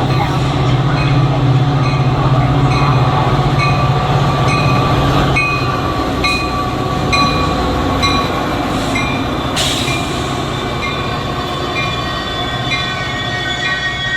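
A train rolling past at close range: a steady rumble with rhythmic clacks of the wheels over the rail joints, about two a second. Thin metallic wheel squeals rise toward the end.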